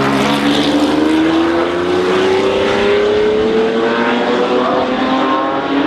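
Racing car engine accelerating, its pitch rising steadily for about five seconds, with other engines running underneath.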